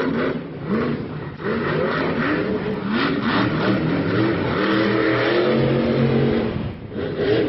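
High-powered vehicle engines revving hard, their pitch climbing in a series of quick pulls, then held high for about two seconds before dropping off briefly near the end and climbing again.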